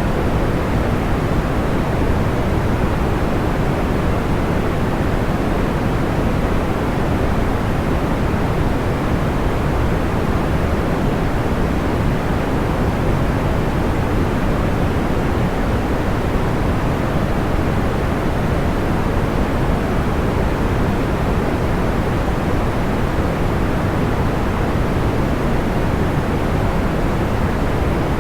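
Steady soft noise track, fuller in the lows than the highs, like pink noise, running evenly without any distinct crackles or pops.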